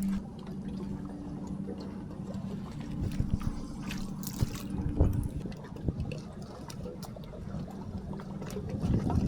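Water splashing and dripping in irregular small bursts. A steady low hum runs under it until about halfway through.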